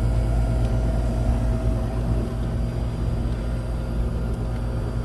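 Steady low hum of an air-conditioner condenser unit running, its compressor and fan motor now on a freshly fitted 40/5 µF dual run capacitor.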